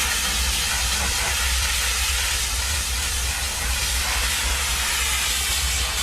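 Steady hiss of a high-pressure water spray, with a low rumble underneath.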